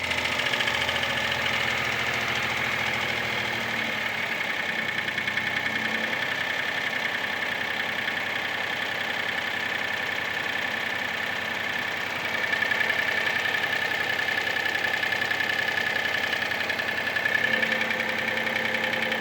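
Mitsubishi Space Star engine running steadily with a continuous rapid metallic clatter, which the owner takes for piston slap. It gets slightly louder about two-thirds of the way through.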